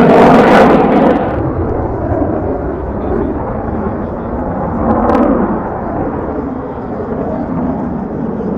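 Aircraft passing overhead, loud at first, then fading within about a second and a half into a distant rumble over outdoor background noise.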